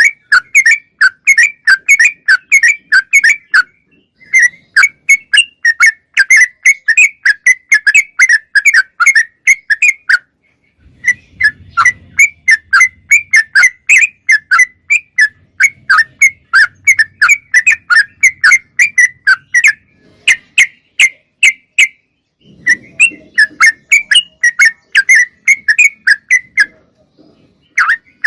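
Trucuk (yellow-vented bulbul) singing, rapid runs of short, clear, bubbling notes lasting several seconds each, broken by brief pauses.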